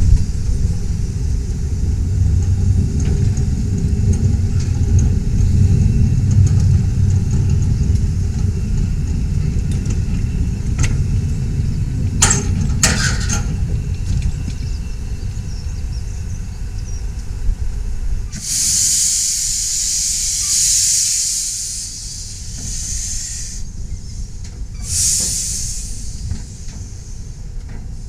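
A 15-inch gauge steam train running with a steady low rumble, broken by two brief sharp sounds about twelve seconds in. The rumble dies away as the train comes to a stand, then the steam locomotive lets off steam in a loud hiss for about five seconds, with a second short hiss near the end.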